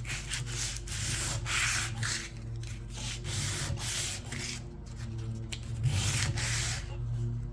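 Hand sanding, sandpaper rubbed back and forth in quick, even strokes, about two a second, to take off old paint and finish.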